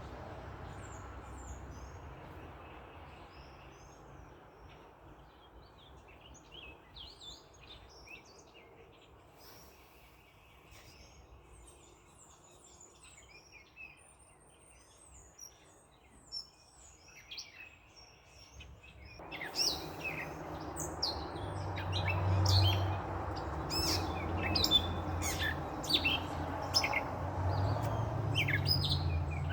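Small birds chirping and twittering back and forth. About two-thirds of the way through, a steady rushing noise with a low hum swells up under the birds and stays to the end.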